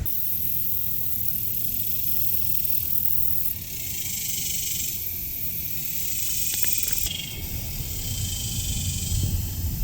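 High-pitched insect chorus, a steady hiss that swells and fades several times.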